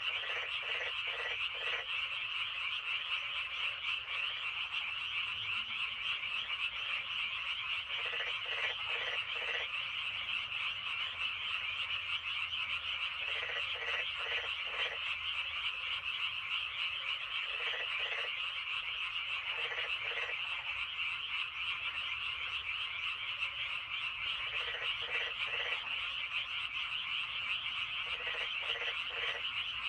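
Dense chorus of many frogs calling together in a steady high trill. Every few seconds a lower croak cuts through in short runs of two to four notes.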